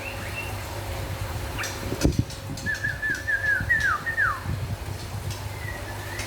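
White-rumped shama (murai batu) singing: clear whistled notes, with a quick run of about six short falling whistles in the middle. A sharp knock about two seconds in, over a steady low hum.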